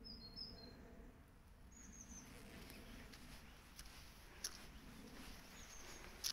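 Quiet outdoor background with a few short, high bird chirps: a pair near the start, one about two seconds in, and another near the end. A faint low background haze runs underneath, and there is a sharp click about four and a half seconds in and another at the end.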